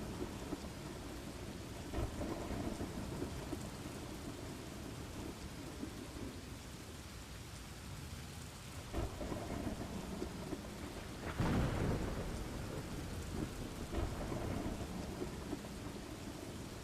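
Steady rain with low rolling thunder rising and fading, and one louder, sharper peal of thunder about two-thirds of the way through.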